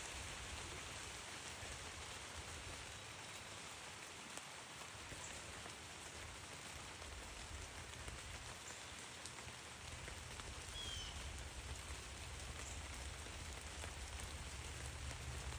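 Faint, steady outdoor ambience: an even hiss, with a low rumble growing from about five seconds in and a brief high chirp near eleven seconds.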